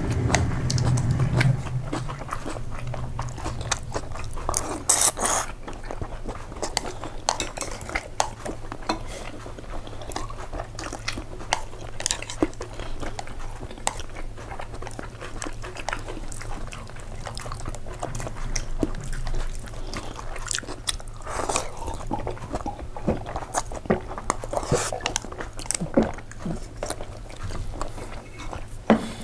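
A person eating pasta close to the microphone: steady chewing and biting, with many small wet mouth clicks throughout.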